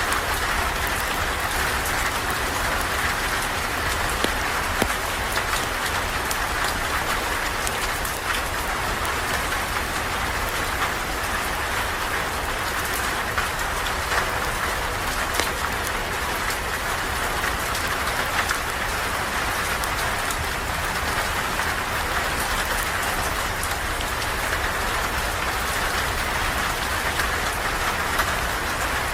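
Steady rain falling, an even hiss with scattered sharp taps.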